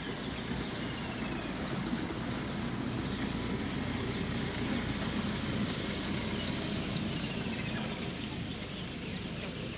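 Wild birds chirping and whistling over a steady low rumble: many short chirps and a few thin sliding whistles.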